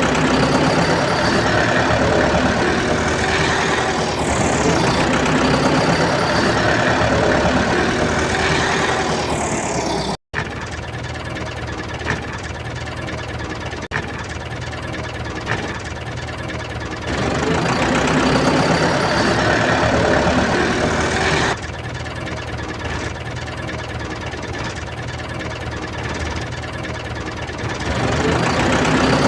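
A motor running steadily with engine-like knocking, with a cut about ten seconds in and louder stretches later.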